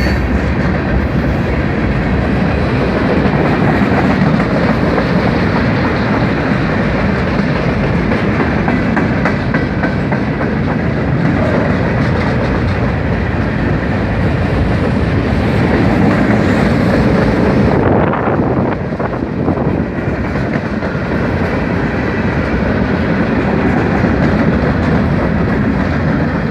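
Norfolk Southern mixed freight train's cars rolling past, a steady loud rumble of steel wheels on the rails; the sharper upper part of the sound falls away about two-thirds of the way through.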